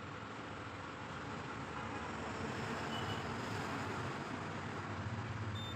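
Prestige induction stove giving two short, high beeps, about three seconds in and near the end, as it signals its E4 error, over a steady rushing background noise.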